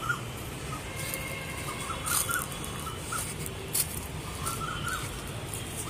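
Birds chirping in short calls over a steady low background noise.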